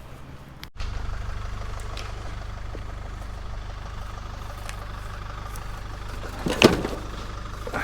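Vehicle engine running steadily with a low rumble, after a cut a little under a second in. One sharp knock about two-thirds of the way through.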